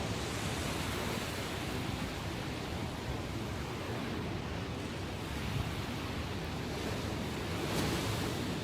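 Ocean waves breaking and washing on the shore in a continuous rush of surf, swelling slightly near the end, with some wind on the microphone.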